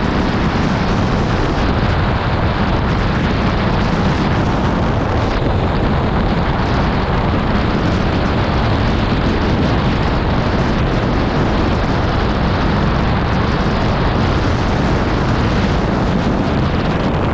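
Loud, steady low rumble of a truck turning, mixed with heavy wind buffeting on the microphone.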